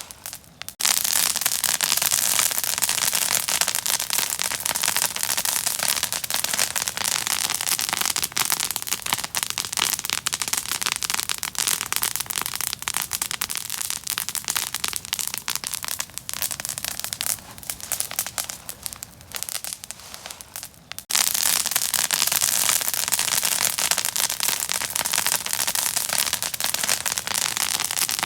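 Open fire crackling and popping, a dense run of tiny sharp pops. It thins out and quietens near twenty seconds in, then comes back suddenly loud.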